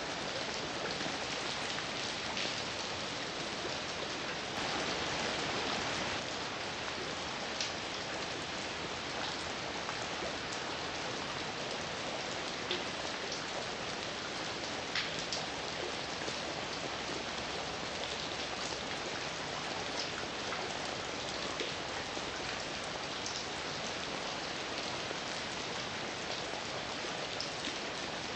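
Heavy rain falling steadily, a dense hiss with individual drops ticking sharply on a surface. It swells slightly louder for a second or two about five seconds in.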